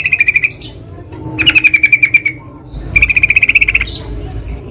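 Yellow-vented bulbul calling: three quick chattering bursts, each a rapid run of notes lasting under a second, with short gaps between them.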